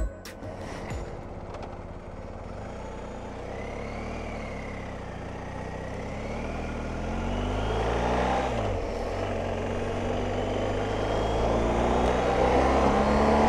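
BMW R 1250 GS Adventure boxer-twin engine running on the move over wind rush. Its note dips about nine seconds in and climbs again toward the end as the sound grows louder.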